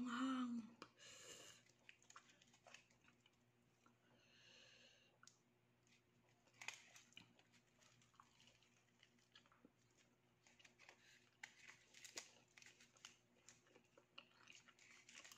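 A person chewing a chicken sandwich up close: faint, scattered wet mouth clicks and smacks, thickest in the second half. A short vocal sound opens it in the first half-second.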